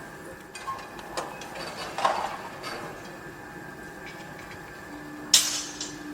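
Construction-site ambience: scattered metal clanks and knocks a second or so apart, some briefly ringing, the loudest a sharp bang about five seconds in, over a steady faint hum. A steady low tone comes in near the end.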